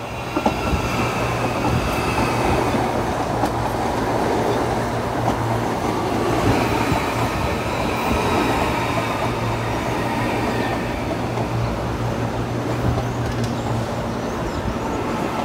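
CPTM electric commuter train moving through the station close by: a steady rumble of wheels on the track with a low hum and a faint high whine. It grows loud right at the start.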